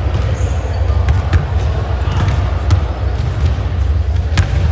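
Basketball bouncing on an indoor court in live play, with irregular sharp knocks and a short high sneaker squeak about half a second in, over a steady low rumble of hall noise.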